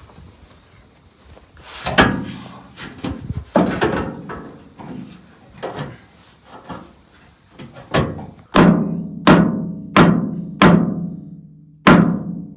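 A series of hard, drum-like strikes, each leaving a low ringing tail. They come unevenly at first, then settle into a steady beat of about one every 0.7 s in the second half.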